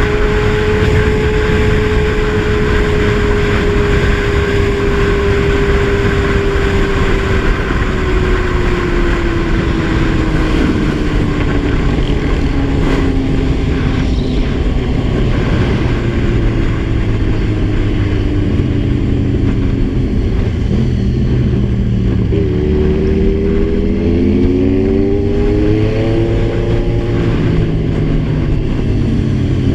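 Kawasaki Z1000's inline-four engine heard from the bike while riding, over heavy wind rumble. Its note slowly falls as the bike eases off, rises again under throttle about three-quarters of the way through, then drops back near the end.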